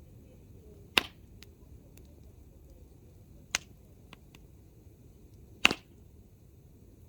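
Hardwood firewood burning in an open campfire, popping sharply three times with a few faint crackles in between, over the fire's low steady rush.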